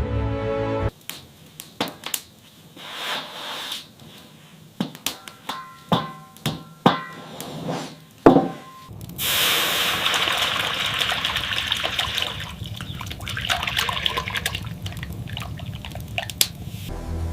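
A series of knocks and clinks from objects being handled, some ringing briefly. From about nine seconds in comes a steady rush of running water.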